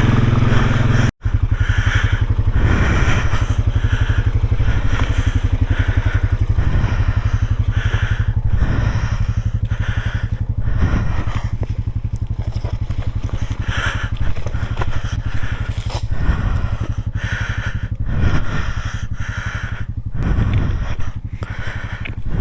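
Off-road vehicle engine running steadily while riding a rough trail, with repeated crunching and rattling from the ground and bumps. The sound cuts out for an instant about a second in.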